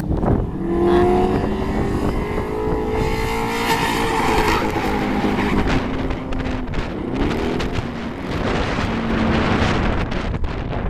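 A car engine under hard throttle, its pitch climbing slowly for the first few seconds, then easing off and picking up again about seven seconds in.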